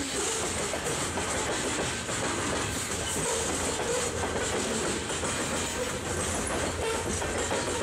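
Freight train's covered hopper cars rolling past at a steady pace, steel wheels rumbling and clicking over the rails.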